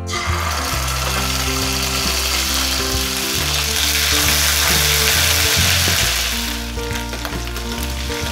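Ginger garlic paste sizzling in hot oil in a nonstick wok while it is stirred with a spatula. The sizzle starts suddenly as the paste hits the oil, is loudest around the middle, and eases off near the end.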